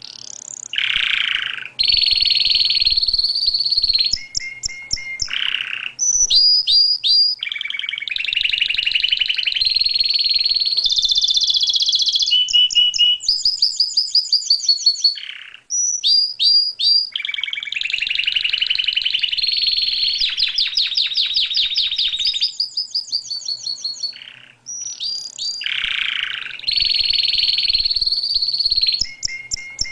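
A small songbird singing a long, continuous song of rapid trills and rolls, high-pitched and loud. It breaks off briefly twice, about halfway through and again about three quarters through.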